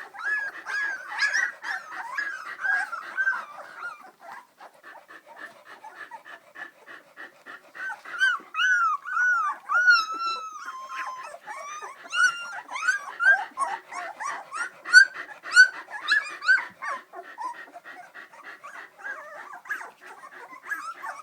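Three-week-old Samoyed puppies whimpering and squeaking, many short high calls overlapping one another, with a longer run of falling whines about eight to eleven seconds in.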